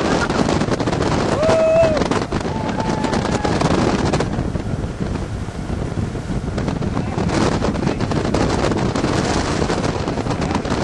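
Wind buffeting the microphone aboard a motorboat under way, over the boat's engine and the hull running through the water.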